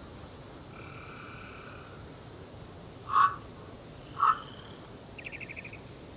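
Wild birds calling: a held whistled note early, then two short, loud, harsh calls about a second apart, and a quick trill of about eight notes near the end.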